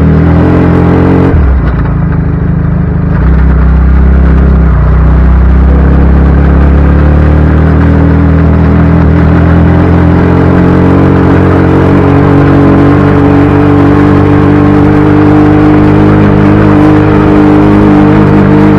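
Motorcycle engine running steadily, with a brief dip in level and pitch about a second and a half in before it settles again.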